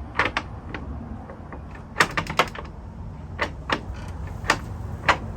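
Sharp, irregular clicks and light knocks, with a quick run of several about two seconds in.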